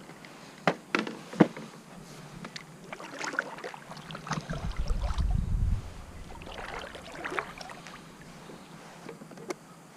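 Kayak on the water: three sharp knocks in the first second and a half, then two spells of water swishing typical of paddle strokes, with a low rumble of wind on the microphone around the middle.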